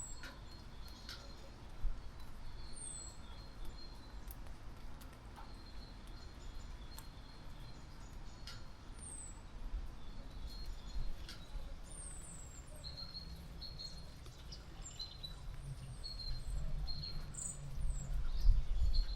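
Small birds chirping outdoors: many short, high chirps and whistled notes scattered throughout, with a few sharp clicks. A low rumble builds near the end and becomes the loudest sound.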